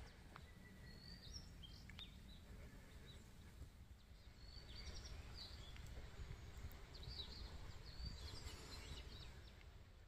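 Faint bird chirps, short scattered calls coming in ones and twos, over a low steady background rumble. The calls grow busier about halfway through.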